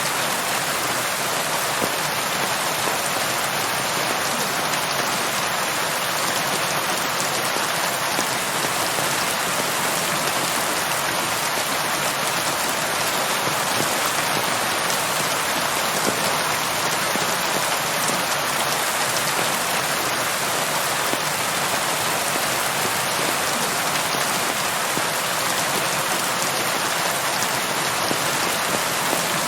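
Steady rainfall, an even hiss of many drops pattering on a surface, with no thunder.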